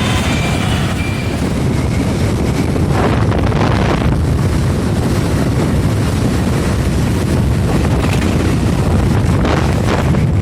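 Wind buffeting the microphone on a moving motorcycle, a steady loud rush over the bike's running engine and road noise.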